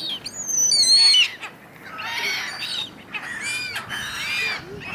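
A flock of gulls calling over one another in a noisy squabble, many high, rising-and-falling cries overlapping, loudest in the first second.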